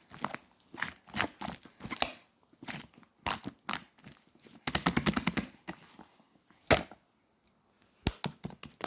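Slime being squished and poked by hand: a run of sharp, sticky clicks and pops, a fast crackling flurry about five seconds in, a brief pause, then quick clicks again near the end.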